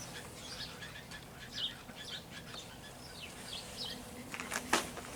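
Birds chirping in the background: many short, high chirps and calls scattered throughout, with a couple of sharp clicks near the end.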